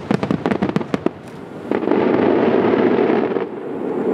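Fireworks going off: a fast run of sharp cracks and pops, then about halfway a loud rushing hiss that lasts under two seconds and cuts off.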